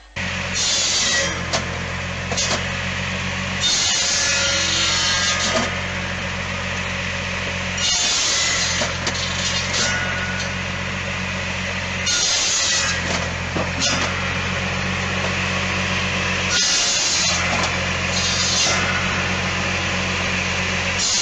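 A machine running steadily with a low hum, starting abruptly. Every few seconds a harsh hissing burst rises over it and dies back.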